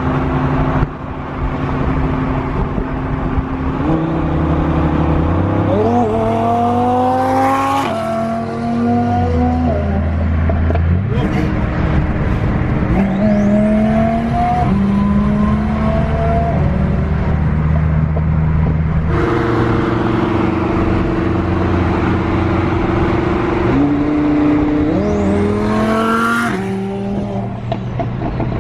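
Twin-turbo Lamborghini Huracan's V10 accelerating hard in three pulls, its pitch climbing and then dropping back at each gear change, with steadier cruising between the pulls.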